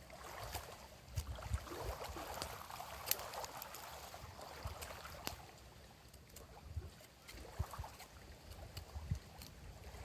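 Small waves lapping against the lakeshore in uneven swells, with scattered sharp clicks and crackles.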